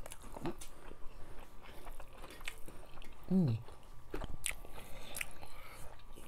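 Close-up mouth sounds of eating: chewing with wet lip smacks and clicks, and a short falling "mm" hum about three seconds in.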